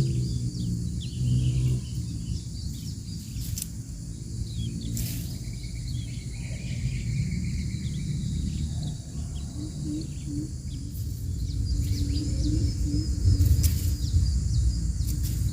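Outdoor ambience: many short, high bird chirps over a steady high insect drone and a low rumble.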